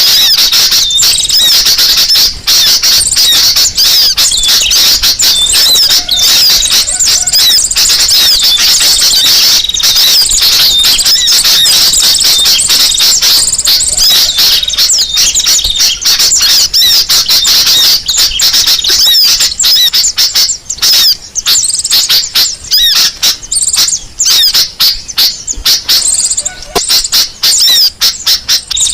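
Bird-lure recording of small birds calling: a loud, unbroken stream of rapid high chirps and short twittering notes, the sogok ontong (spiderhunter) call mixed with sooty-headed bulbul calls. From about two-thirds of the way in, the stream grows choppier, with brief gaps between bursts.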